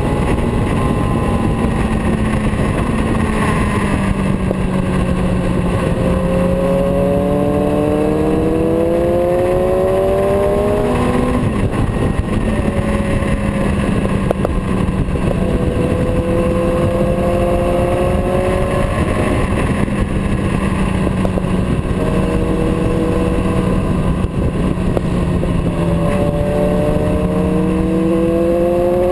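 Motorcycle engine running under way, its pitch rising again and again and dropping back between rises, like accelerating through gear changes, over a heavy steady rush of noise.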